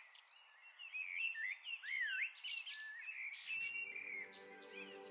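Birdsong, several birds chirping and whistling in quick, varied phrases. About three and a half seconds in, soft music with held notes fades in beneath it.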